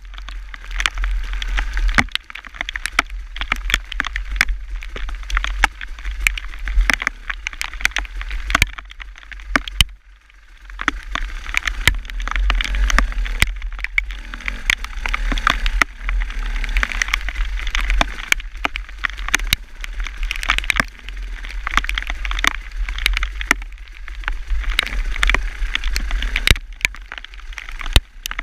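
Rain striking close to the microphone as many sharp, irregular ticks over a steady low rumble. It dips briefly about ten seconds in.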